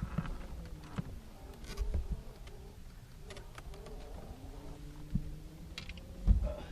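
Fishing reel whirring as a big blue catfish is fought on the rod, its pitch rising and falling. A sharp knock sounds about six seconds in.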